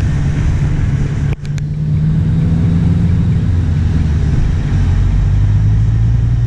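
Ford Focus engine and road noise heard inside the cabin while driving, a steady low drone. It briefly cuts out about a second and a half in, and its low hum shifts lower and grows stronger later on.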